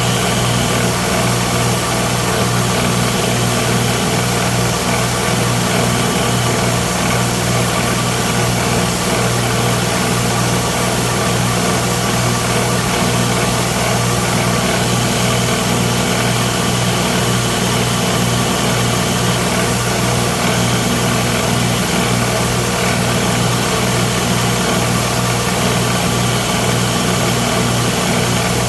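Electric grinder or sander running steadily: a constant motor hum under an even abrasive hiss, while the knife handle is ground and sanded to shape.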